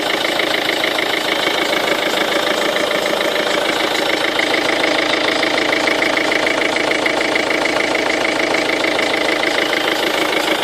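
Ford Focus 2 1.6 TDCi four-cylinder diesel idling cold, with a fast, even rhythmic noise from the right side of the engine bay that sounds like a tyre being pumped with a hand pump. Its cause is unknown: the owner suspects low power-steering fluid, the timing belt, a failing water pump or the air-conditioning compressor.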